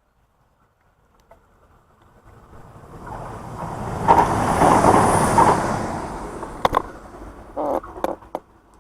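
A vehicle passing by: a broad rushing noise swells over a few seconds, peaks around the middle and fades away. A few sharp knocks come near the end.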